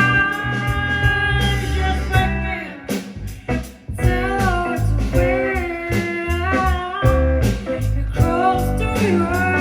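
A band playing a blues-style song with guitar, bass and drums and a gliding melody line. The music thins out and drops away briefly about three seconds in, then comes back in full.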